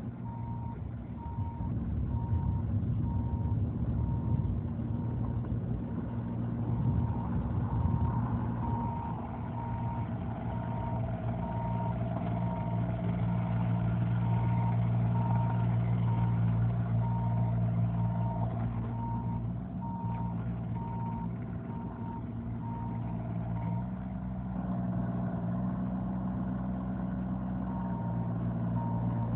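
2021 Bobcat E32i mini excavator's diesel engine running steadily, with its travel alarm beeping about once a second. The beeping stops about two-thirds of the way through and comes back near the end, and the engine's pitch shifts a little higher in the last few seconds.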